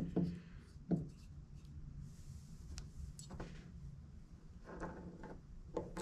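A few faint, scattered knocks and clicks of a disassembled chainsaw and its parts being handled, over a low steady background hum.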